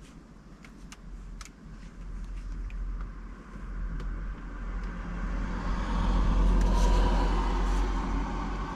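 A motor vehicle driving past, its rumble growing louder to a peak about six to seven seconds in, then fading. A few light clicks come in the first second and a half.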